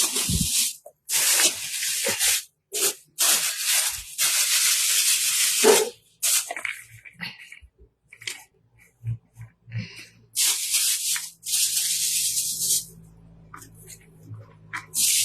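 Repeated bursts of hissing spray, each from half a second to about two seconds long, with a quieter gap through the middle and near the end. A faint low hum and a couple of soft knocks come in the quiet stretch.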